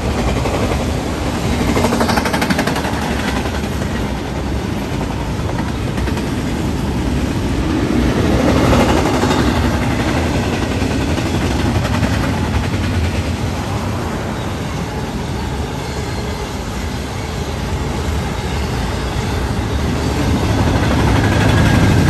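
Double-stack intermodal container train passing at speed: a steady, loud rush and rumble of steel wheels on the rails as the well cars go by.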